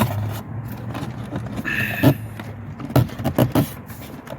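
Hard clicks and knocks of a Mercedes W203 instrument cluster being pushed back into its dash opening, with a short two-pitched beep about two seconds in.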